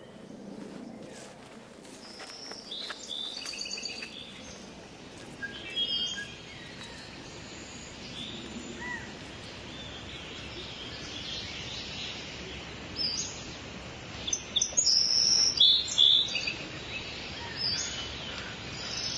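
Songbirds singing and calling in woodland: many short chirps and trills over a steady background hiss, with the loudest bursts of song about three quarters of the way through.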